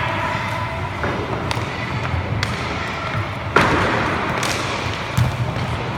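Inline hockey being played on a rink: a steady low rumble with sharp knocks and clacks of sticks and the puck against the floor and boards, about one every second. The loudest bang comes about three and a half seconds in.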